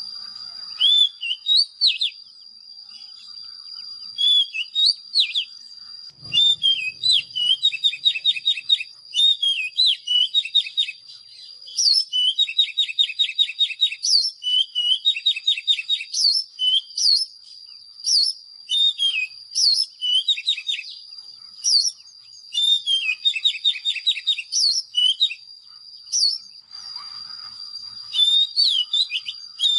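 Oriental magpie-robin singing: whistled notes and fast, rattling trills in phrases every second or two, over a steady high-pitched whine.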